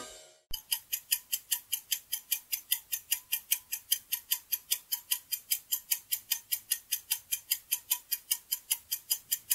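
Clock-ticking countdown timer sound effect, about four even, sharp ticks a second, starting about half a second in: the time given to guess the answer.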